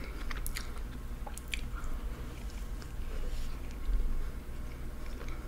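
A person chewing a chicken nugget, with a few faint clicks of mouth sounds.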